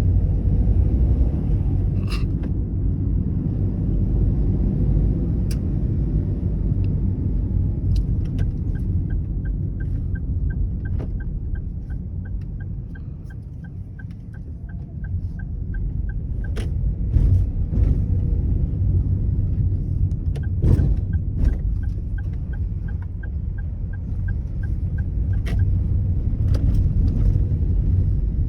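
Car on the move, with steady low engine and road rumble. A rapid, even ticking runs for several seconds about eight seconds in and again about twenty seconds in, with a few scattered sharp clicks.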